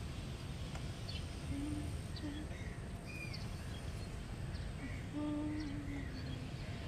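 Outdoor ambience: small birds chirping here and there over a steady low rumble, with a few short, low, even-pitched tones, the longest about five seconds in.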